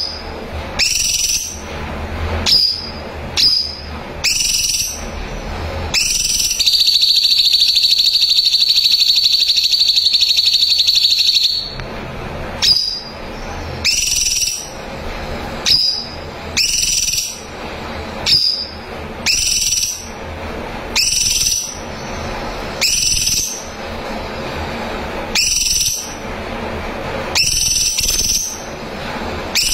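A cucak cungkok in full song. It gives short, loud, high whistled notes roughly every second, broken by one long, fast, buzzy trill of about five seconds near the start.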